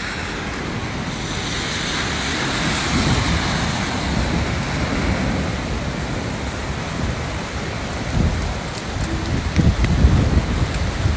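Heavy rain pouring steadily onto a flooded street, with cars swishing through the standing water. Low rumbles grow louder and come in gusts near the end.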